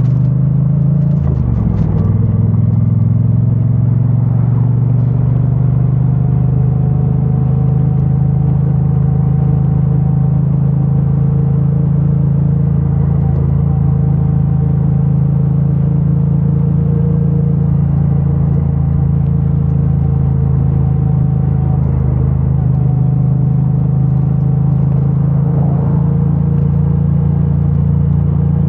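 2022 Triumph Bonneville T100's 900 cc parallel-twin engine through its stock exhaust, running at steady road speed with a brief dip in pitch about a second in. It is heard muffled through a mic stuffed in the rider's backpack.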